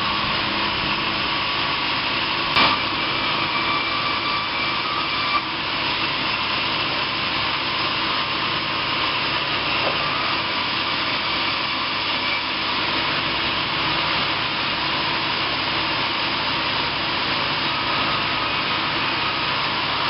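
Sawmill machinery running with a steady, even noise, with one sharp knock about two and a half seconds in.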